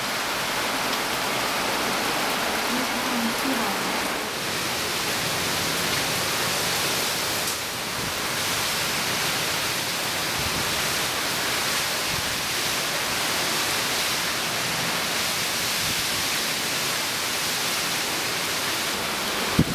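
Heavy hurricane rain and wind: a dense, steady hiss of downpour that holds even throughout.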